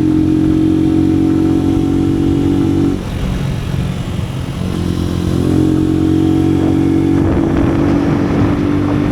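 AKT NKD 125's single-cylinder four-stroke engine running steadily under way. The engine note dips for about two seconds, starting about three seconds in, then picks back up. A rushing noise joins it from about seven seconds in.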